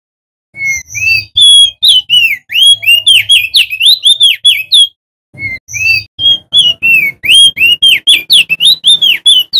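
Male opior jambul (crested heleia) singing a rapid, loud song of whistled notes that sweep up and down. The song comes in two long runs with a brief pause about halfway.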